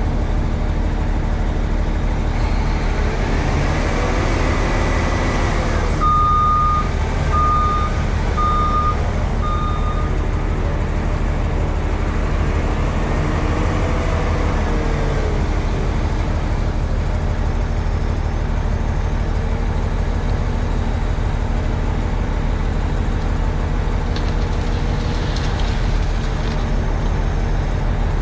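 International S1900 dump truck's DT466 diesel engine running steadily, its revs rising and falling twice. A reversing alarm beeps four times, evenly spaced, about six seconds in.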